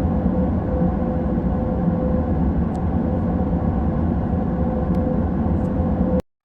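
Tank engine sound effect: a steady, low engine rumble with a faint hum, cutting off abruptly near the end.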